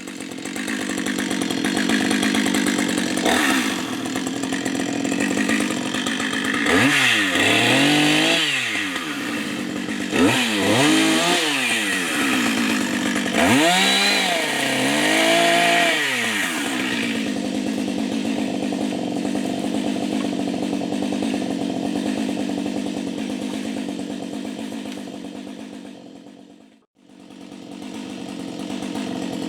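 Chainsaw engine revving up and dropping back three times in quick succession, then running steadily at a lower speed. The sound drops out briefly near the end.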